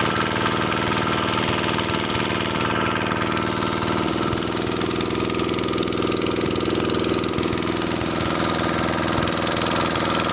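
An engine running steadily with a fast even chugging, its note shifting slightly about four seconds in.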